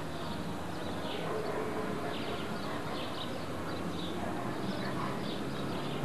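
Small birds chirping over and over, short quick falling notes, over a steady low hum of outdoor background noise.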